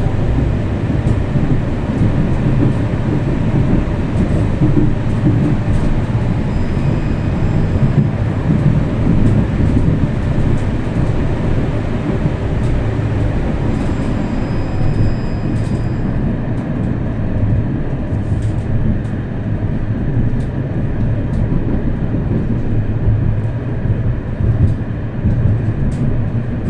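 Tram running along its rails, heard from inside the car: a steady low rumble with a few faint clicks.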